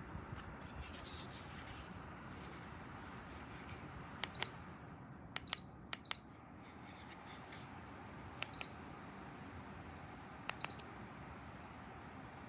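Dreo space heater giving short high beeps as remote buttons are pressed, each with a click, about four times over a steady fan hiss.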